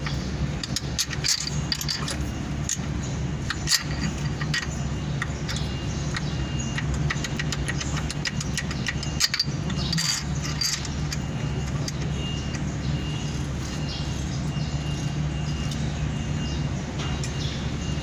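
Metal tools and engine parts clinking and knocking at irregular moments, over a steady low mechanical hum, with the two sharpest knocks about four and nine seconds in.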